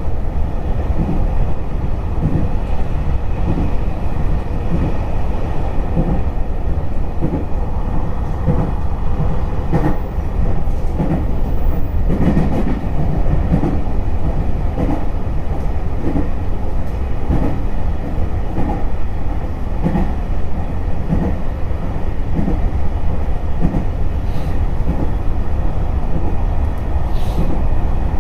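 Electric commuter train running along the line: a steady low rumble of wheels on rail, with a regular clickety-clack of the wheels passing over rail joints.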